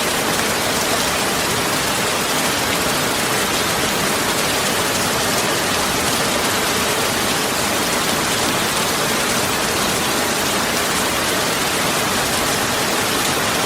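Heavy rain falling steadily on a plantation, an even hiss with no single drops or thunder standing out.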